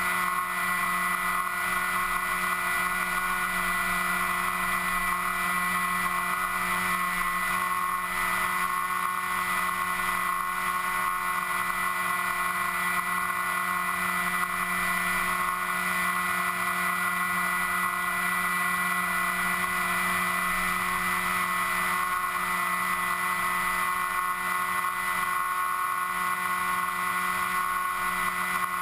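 FPV model aircraft's motor and propeller running at a steady speed, a constant droning whine with several fixed pitches, with airflow hiss over the onboard camera.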